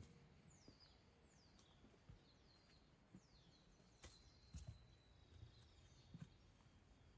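Quiet forest ambience: a bird calling in short, quickly falling high whistled notes over the first three seconds. Midway a thin, steady high note starts and holds for about three seconds, with a few soft low thuds that fit footsteps on the trail.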